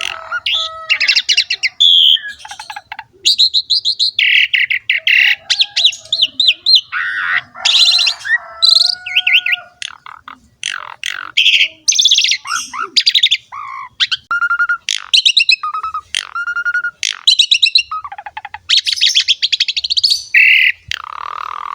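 Asian pied starling (jalak suren) singing vigorously: a continuous, varied run of chattering note trains, squawks and short whistled phrases.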